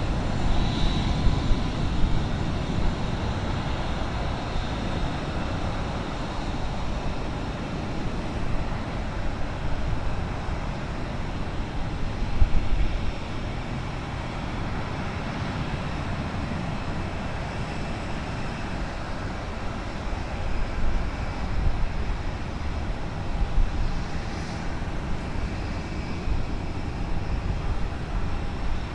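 Airbus A320 jet engines running at taxi power: a steady rumble with faint high whining tones.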